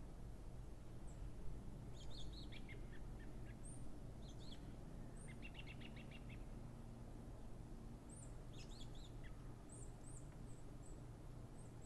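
Faint songbird calls in forest ambience: scattered high thin chirps and short trills, including a rapid trill about halfway through, over a steady low background rumble.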